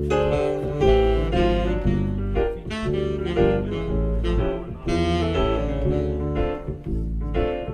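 A band playing live, with a saxophone carrying the melody over a steady low bass line.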